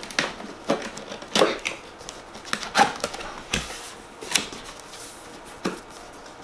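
Irregular clicks and knocks, about a dozen over several seconds, of items and packaging being handled and set down on a hard surface.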